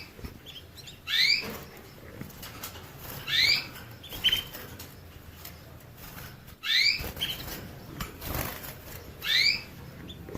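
A small finch giving short rising call notes, one upswept chirp about every two to three seconds, over a steady rustling noise.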